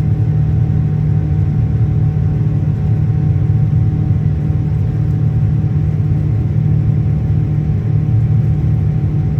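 Steady, loud drone of a Boeing 787-9's Rolls-Royce Trent 1000 engines heard from inside the passenger cabin. It is a deep, even rumble with a couple of faint steady tones above it.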